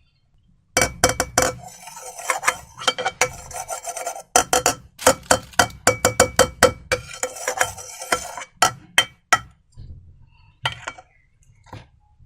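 A hard utensil clinking and scraping against a bowl as slime ingredients are stirred. It comes in two long runs of rapid clinks with a short break between them, then only a few scattered clicks near the end.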